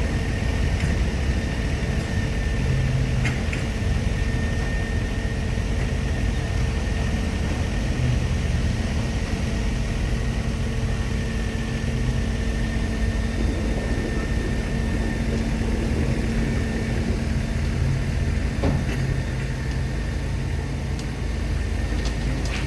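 Belarus tractor's diesel engine running steadily with a low rumble and an even, unchanging level.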